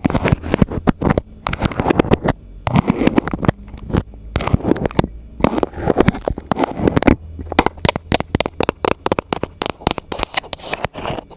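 Rapid, irregular tapping and scratching on objects held close to a microphone, in quick clusters of sharp clicks and scrapes.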